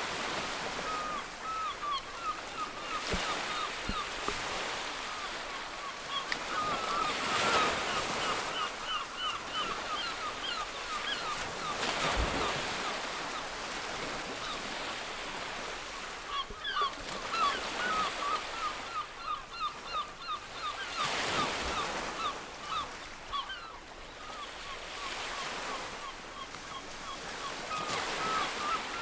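Surf washing in, swelling every few seconds, under a flock of birds calling in short, quickly repeated notes that come in runs.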